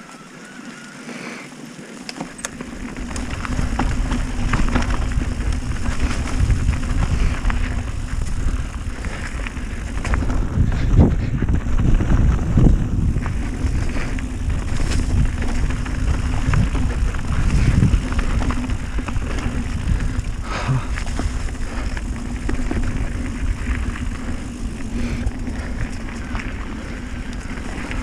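Mountain bike descending a dirt trail: heavy wind rumble on the camera microphone and tyres rattling over rough ground, building up about two to three seconds in, with scattered knocks from bumps.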